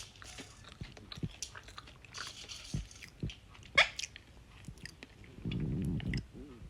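Green parrot biting and crunching food, a run of sharp irregular crunches and clicks. A short rising squeak comes about four seconds in, and a low buzzing sound lasting under a second comes near the end.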